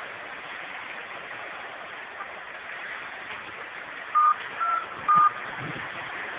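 Three short phone keypad tones, about half a second apart, a little past halfway through, over a steady rushing noise.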